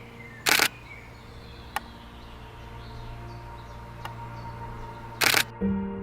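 DSLR camera shutter firing two short bursts, about half a second in and again near the end, over faint birdsong. Soft piano-like music comes in near the end.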